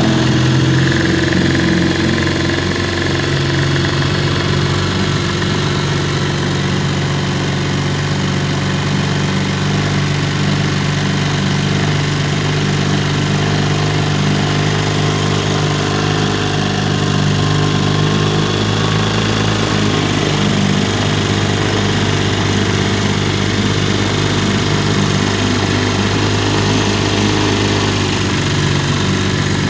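1953 Elgin 5.5 hp two-cylinder two-stroke outboard motor running steadily, freshly restored with new coils and a cleaned carburettor and fuel tank.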